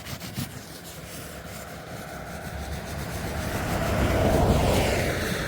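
A vehicle driving past on the road, its noise swelling to a peak about four seconds in and then fading away.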